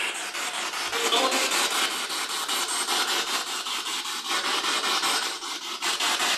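Spirit box (radio-scanning ghost-hunting device) sweeping in reverse: loud radio static chopped into rapid, even pulses several times a second as it jumps from frequency to frequency.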